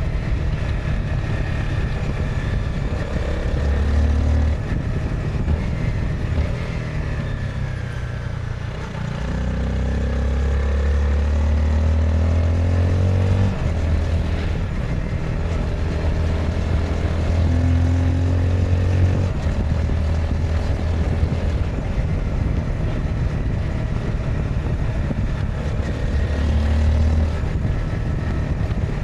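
Honda CBR 250R's single-cylinder engine running on the move, its note shifting up and down with throttle, easing off and dipping in loudness about eight seconds in, then pulling again.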